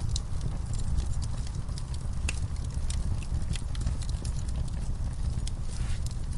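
Fireplace fire crackling: irregular sharp pops and snaps over a steady low rumble of burning flames.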